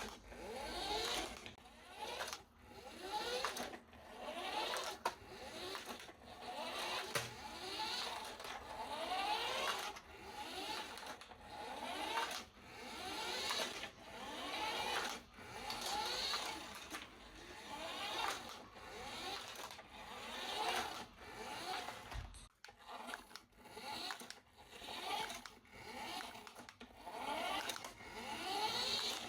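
Small electric motor of a remote-control toy whirring in repeated swells that rise and fade about every second and a half.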